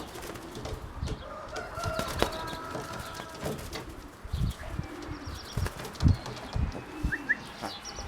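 Young racing pigeons flapping their wings and cooing, with irregular low thumps and a few short chirps.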